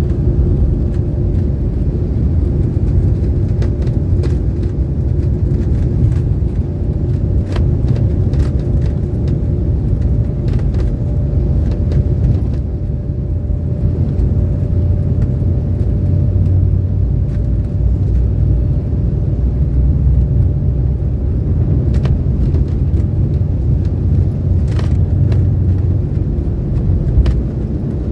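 Steady low rumble of a jet airliner's engines heard from inside the cabin, with a faint steady hum and occasional light clicks.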